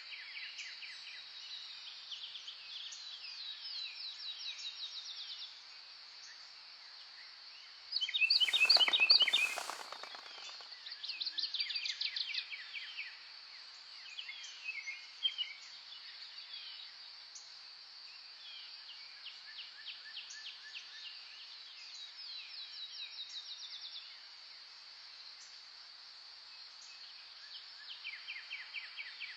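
Songbirds singing in short phrases of rapid repeated notes over a steady high hum. About eight seconds in, one bird sings a much louder burst of rapid notes close by.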